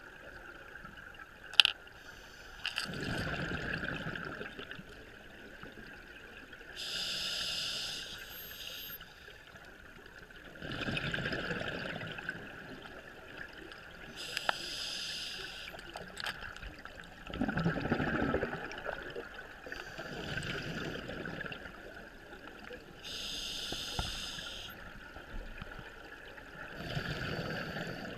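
Scuba diver breathing on a regulator underwater: slow, regular breaths, a hissing inhalation alternating with a rumbling burst of exhaled bubbles about every seven to eight seconds. A sharp click sounds near the start.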